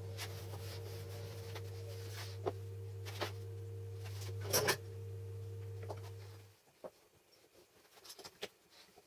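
A steady low electrical hum that stops about six and a half seconds in. Light clicks and knocks are scattered through it, with a louder clatter a little past halfway.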